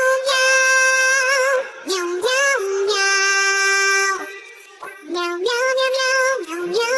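A song with a high, synthetic-sounding singing voice holding long notes. The voice steps between two pitches, with short breaks between phrases.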